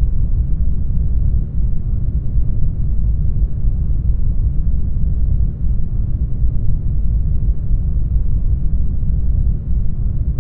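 Brown noise: a steady, deep rushing hiss, strongest in the bass and thinning toward the treble, with no tones or sharp sounds in it.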